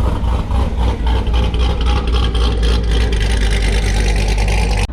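A car engine running with a steady low rumble; the sound cuts off abruptly at the end.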